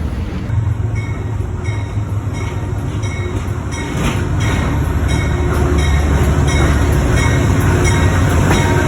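A train rolling past with a steady low rumble and a regular click-clack of wheels over rail joints, about one and a half clicks a second. It grows louder about four seconds in.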